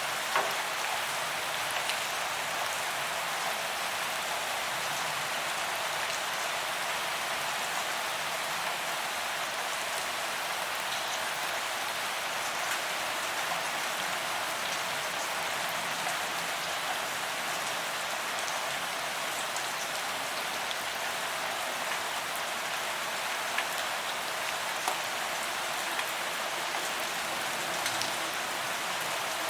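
Steady rain falling on a paved promenade: an even hiss of drops on the pavement, with a few louder single drop hits here and there.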